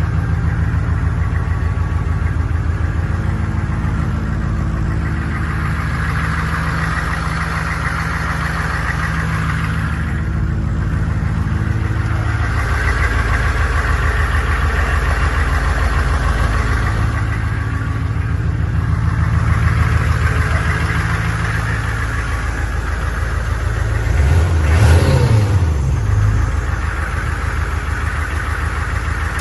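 2000 AM General Humvee's 6.5-litre V8 diesel running steadily at idle, with one short rev about 25 seconds in.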